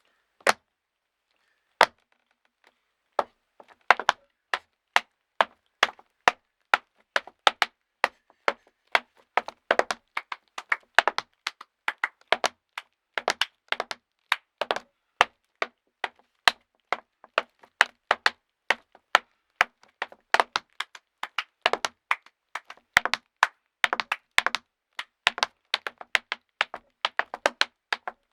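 Tap shoes striking a bare wooden board in a rhythmic tap phrase. A few scattered taps come first, then from about four seconds in a dense, steady run of crisp strikes.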